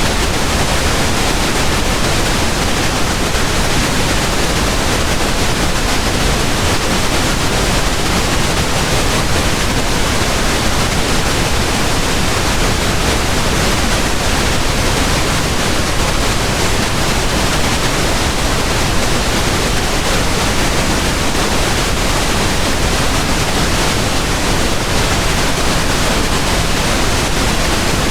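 Steady pink noise: an even, unchanging hiss spread across all pitches, with no rhythm or events.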